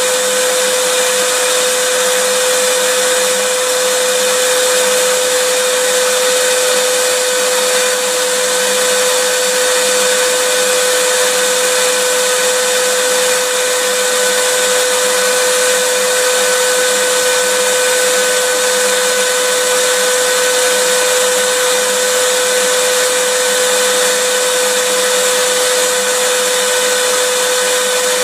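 Vacuum cleaner motor running steadily: a loud, even rush of air with a high motor whine.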